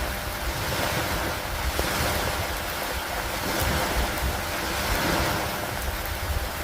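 Steady rain with wind, an even hiss that swells and eases every few seconds, with a few faint sharp ticks.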